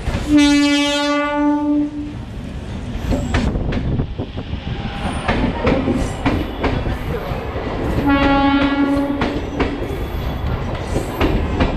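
A MEMU electric multiple unit train sounds its horn twice, a steady single-note blast of about a second and a half near the start and a shorter one about eight seconds in, while its wheels rumble and clatter over the rail joints as it runs into the platform.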